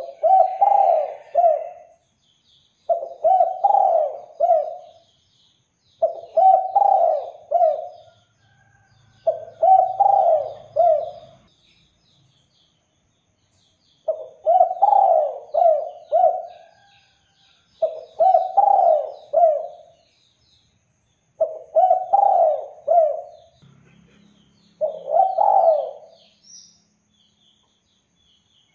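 Spotted dove (derkuku) cooing in repeated phrases of several notes, a new phrase about every three seconds with one longer pause near the middle. Small birds chirp faintly behind it.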